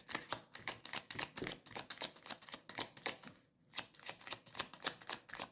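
Tarot deck being shuffled by hand: a rapid run of card flicks and slaps, pausing briefly about three and a half seconds in.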